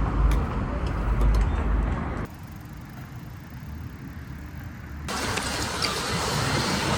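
Outdoor wind and road noise with a heavy low rumble on the microphone during a bike ride. It drops suddenly to a quieter stretch about two seconds in and comes back, brighter, about five seconds in.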